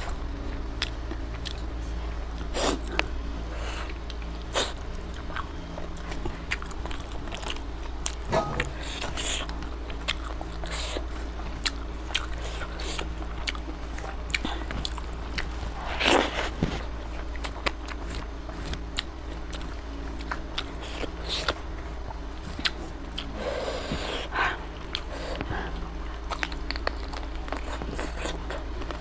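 Close-miked eating sounds: chicken and rice with gravy chewed with the mouth open, with many short wet clicks and smacks throughout. A louder smack comes about sixteen seconds in.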